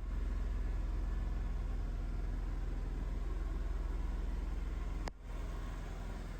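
Aprilia SXR 50 scooter's 50cc engine idling steadily, with a brief drop about five seconds in before it carries on slightly quieter.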